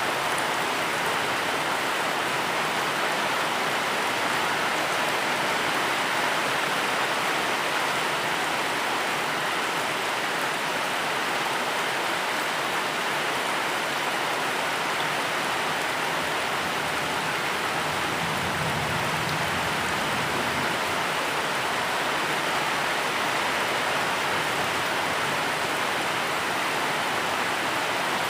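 Steady, even rainfall, a continuous dense hiss of falling rain. A faint low rumble swells briefly about two-thirds of the way through.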